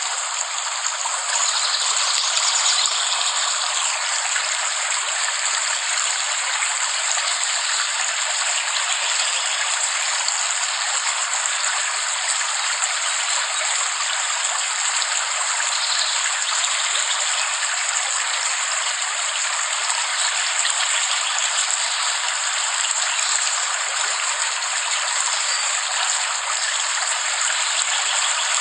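Steady rain falling: an even, unbroken hiss with no separate drops, thunder or breaks standing out.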